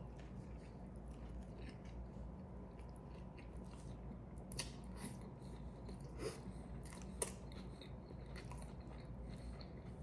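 Faint close-up chewing of a mouthful of burger: soft, scattered wet mouth clicks over a low steady hum.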